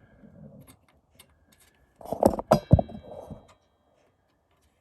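Metal clinks and knocks from adjusting and measuring a table saw's fence with the saw switched off: a few light clicks, then a cluster of louder knocks about two seconds in, one of them ringing briefly.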